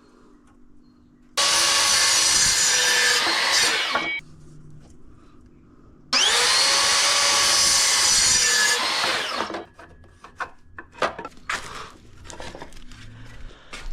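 Hilti screw gun running in two bursts of about three seconds each, its motor whine rising as it spins up and falling as it winds down. Light clicks and knocks follow.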